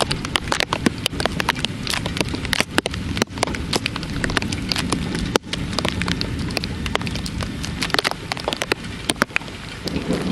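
Heavy thunderstorm rain, with many separate drops ticking sharply close by over a steady hiss of rainfall. A low rumble of thunder begins right at the end.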